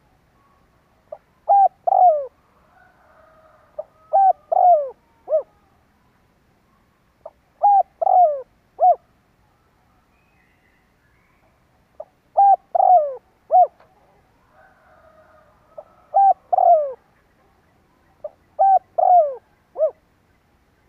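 Spotted dove cooing: six short phrases of a few falling coos each, repeated every few seconds, with fainter softer calls between some phrases. This is the male's territorial cooing, played as a decoy call to provoke rival doves.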